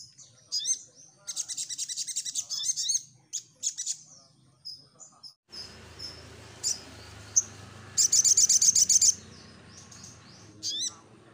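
Crimson sunbird (sogon) singing: high, sharp chirps broken by fast rattling trills, the loudest trill near the end. A steady low hiss sets in suddenly about halfway through.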